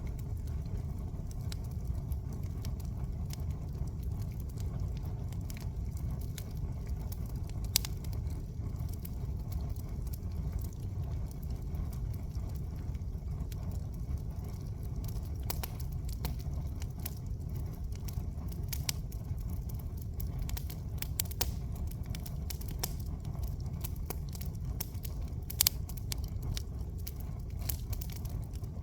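Wood bonfire burning, crackling and popping irregularly over a steady low rumble, with two sharper pops standing out.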